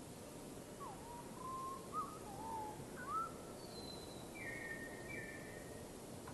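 A bird sings a few short whistled notes that slide up and down, then a brief high note and two higher, level notes, over a steady background hiss.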